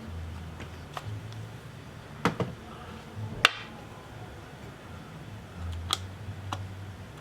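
A handful of scattered sharp clicks and light taps, the loudest about three and a half seconds in, over a faint low hum.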